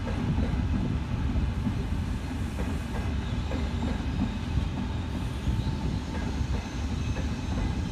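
Trains moving through a station: a steady low rumble of wheels on rails from a Pop regional train pulling away and a Frecciargento high-speed train coming in, with a few faint clicks.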